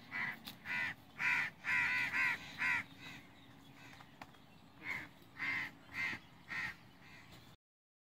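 A bird calling in short repeated calls: a run of about seven in the first three seconds, a pause, then four more from about five seconds in. The sound cuts off abruptly near the end.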